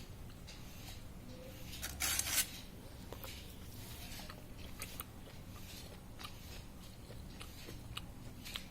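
A person eating luchi (small fried bread) with mutton curry: quiet chewing and scattered small clicks of handling the food. A brief, louder rustle comes about two seconds in.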